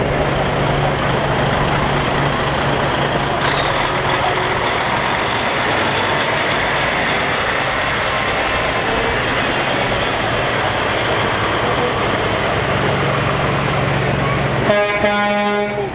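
Heavy trucks running past in a slow parade: a steady diesel engine and road din with a low hum. Near the end a pitched horn sounds for about a second.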